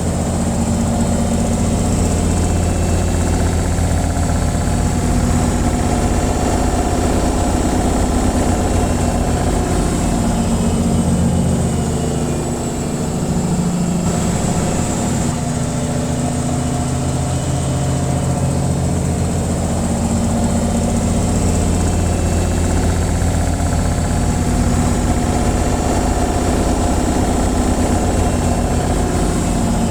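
Washing machine on its spin cycle: a steady low hum and rumble from the motor and spinning drum, easing slightly about twelve seconds in.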